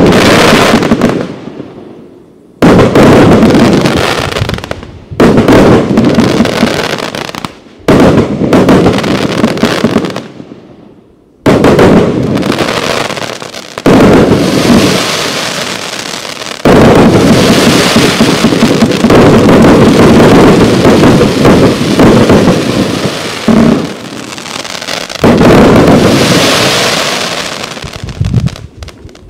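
A 98-shot, 30 mm firework cake firing. Loud bangs come in repeated volleys, each trailing off into a few seconds of crackling and hissing.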